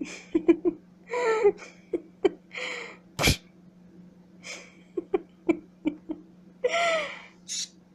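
Green-cheeked conure making several short hissing "shh"/"psh" shushing sounds, with quick sharp beak clicks in between and one louder click about three seconds in.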